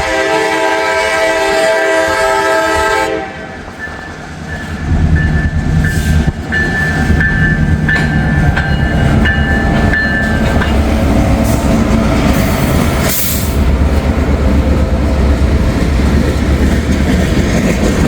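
Freight locomotive horn sounding one long chord that ends about three seconds in. Then the train rolls past close by, with a heavy low rumble and wheels clattering over the rails, and a thin high squeal coming and going for a few seconds.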